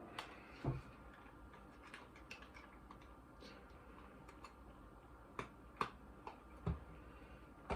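Faint, scattered small clicks and taps of fingers picking at the peel-off lid of a sealed plastic dip pot that will not open.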